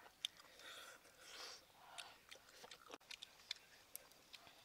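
Faint chewing of cooked frog, with scattered sharp clicks.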